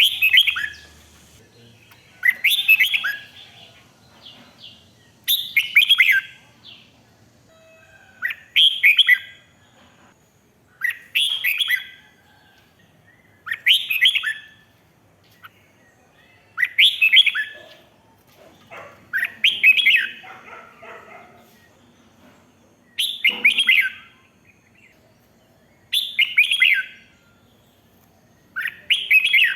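Red-whiskered bulbul singing its short, bright whistled song phrases over and over, one phrase about every three seconds with pauses between.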